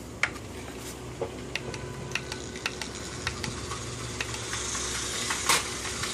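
Light, irregular plastic clicks and taps of a Lego train being handled and set on its plastic track, with one sharper click about five and a half seconds in, over a faint steady hum.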